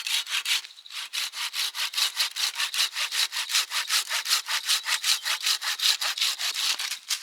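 Hand saw cutting firewood in quick, even back-and-forth strokes, about five or six rasps a second, with a brief pause near the first second.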